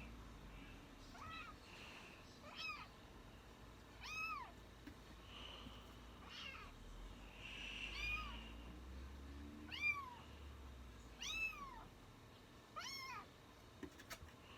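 A kitten meowing repeatedly: short high calls that rise and fall in pitch, about one every one and a half seconds.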